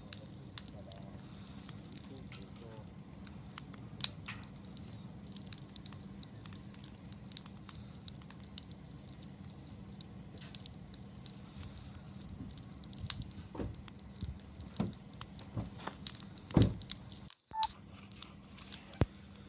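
Wood campfire burning, crackling with scattered sharp pops over a faint steady low hum. The pops come thicker and louder in the last several seconds, and the sound cuts out for an instant near the end.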